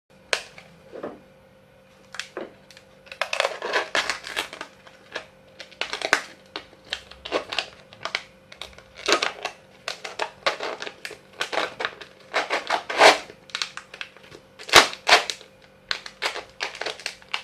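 Plastic drinking bottle crackling and crinkling as holes are cut into it with a small knife: irregular sharp crackles, over a faint steady hum.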